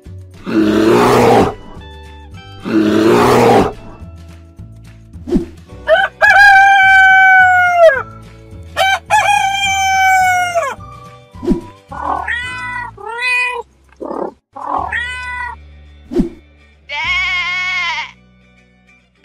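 A string of cartoon animal sound effects over light plucked background music: two loud growls, then two long rooster crows, then several short cat meows, and a sheep bleat near the end.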